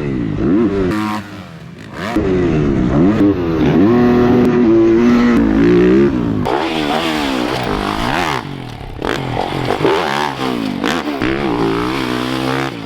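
Yamaha YZ450F single-cylinder four-stroke dirt bike engine with an FMF 4.1 exhaust, revved up and down over and over, its pitch rising and falling every second or so, with a brief lull about a second in.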